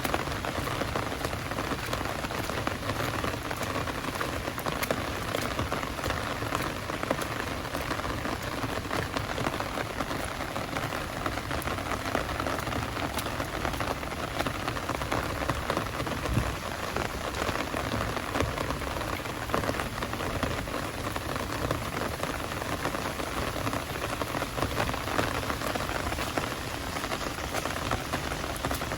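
Heavy downpour rain falling steadily, a dense, even patter of many drops on surfaces.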